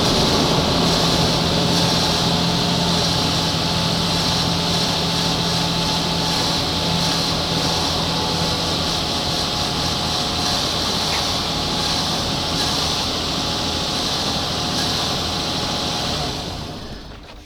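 A steady mechanical running noise with a low hum, fading out about a second before the end.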